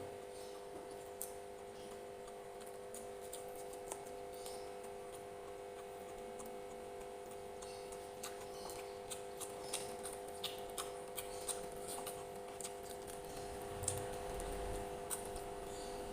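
Chewing and mouth sounds while eating: scattered small clicks and smacks, coming more often in the second half, with a low bump near the end, over a steady background hum.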